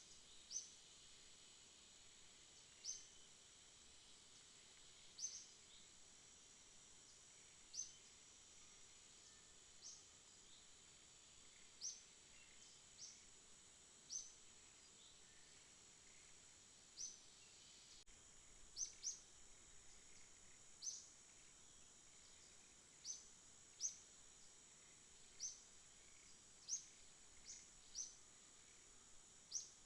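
Faint night ambience of insects: a steady high-pitched trill runs throughout, with short high chirps every one to two seconds that come closer together in the second half.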